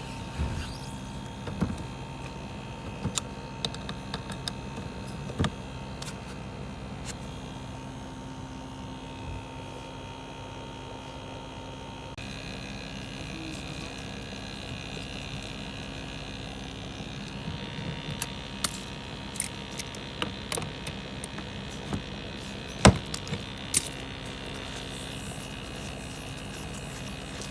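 A steady machine hum with several held tones that change about halfway through, under scattered clicks and knocks of work being done by hand, with one sharper knock near the end.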